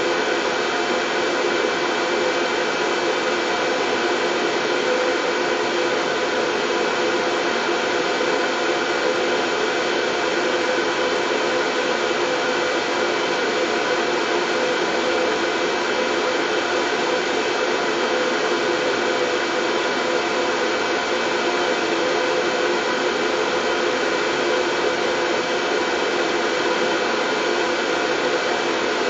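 Steady, unchanging white noise with faint steady tones running through it, like the hiss of an appliance's motor and airflow.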